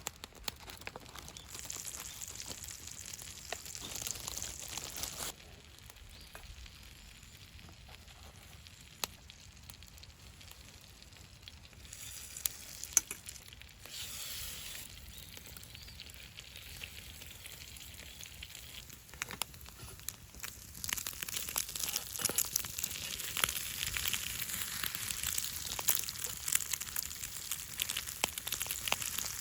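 Wood campfire crackling and hissing, with frequent sharp pops, louder over the last third.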